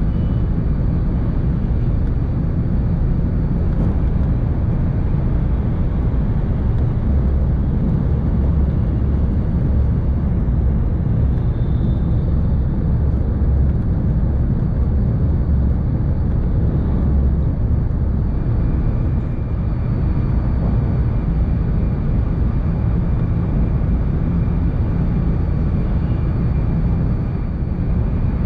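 Steady running noise of a Tohoku Shinkansen train, heard inside the passenger cabin: a constant deep rumble with a rushing hiss above it, unchanging throughout.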